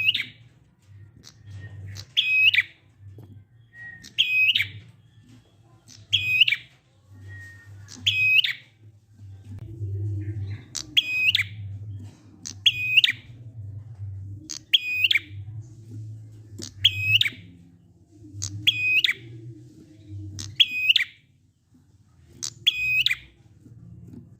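Prinia (prenjak) calling: one short, sharp, hooked note repeated steadily about every two seconds, a recorded 'ngalun' call used to coax other prenjak into calling. A faint low hum runs underneath.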